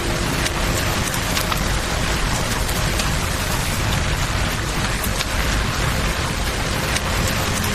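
Rain and campfire ambience: an even, steady hiss of rain with a low rumble underneath and scattered sharp crackles.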